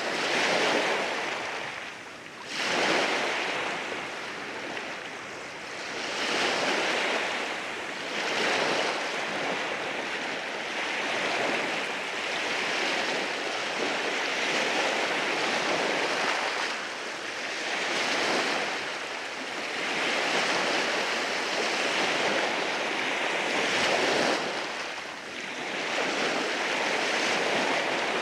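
Waves washing in over a rocky shore, a continuous surf wash that swells and eases every few seconds.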